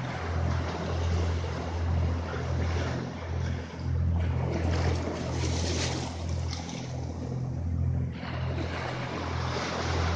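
Waves washing in on the shore, with wind buffeting the microphone in an uneven low rumble that swells and fades.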